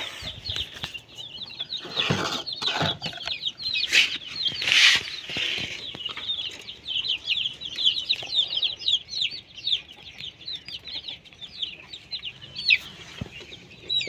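Small birds cheeping: many short, high-pitched chirps in quick succession, thickest from about six to thirteen seconds in. A few brief rustling bursts come in the first five seconds.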